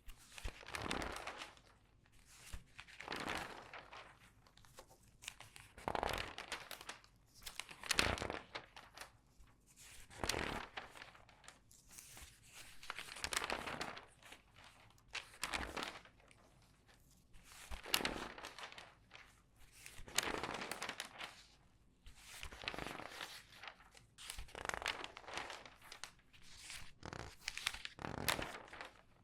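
Newspaper pages being turned quickly one after another, about one turn every two seconds, each turn a burst of rustling and crinkling newsprint with sharp crackles.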